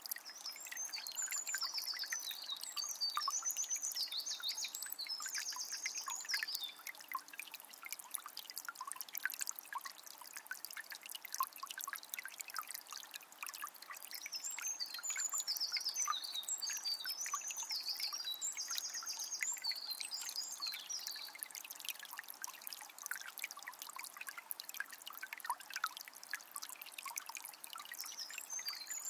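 Calm forest river flowing with a steady trickling and babbling. A small songbird sings quick high phrases over it for a few seconds about a second in, again for several seconds around the middle, and starts once more at the end.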